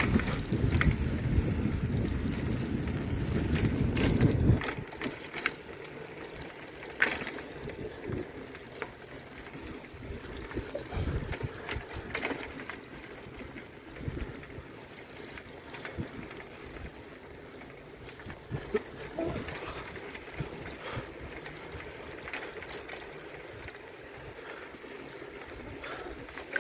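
Wind buffeting the microphone of a moving bicycle as a low rumble that cuts off about four and a half seconds in. After that it is much quieter, with scattered light clicks and knocks.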